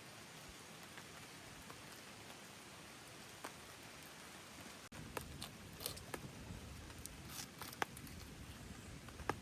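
Light rain falling steadily, with scattered drops ticking sharply. About halfway through the sound changes abruptly to a fuller patter with louder, more frequent drips.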